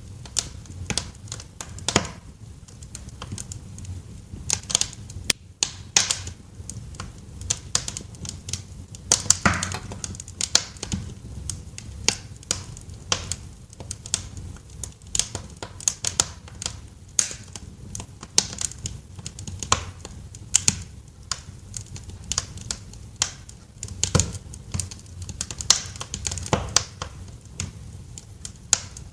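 Wood fire crackling in a fireplace: a steady stream of irregular sharp pops and snaps over a low rumble of the burning.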